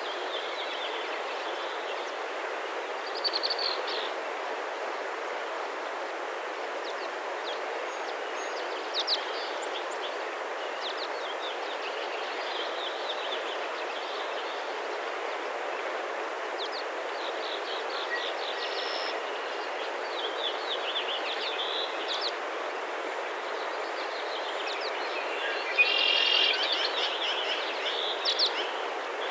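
Small birds chirping and twittering over a steady rushing outdoor hiss, with a louder run of bird calls about 26 seconds in.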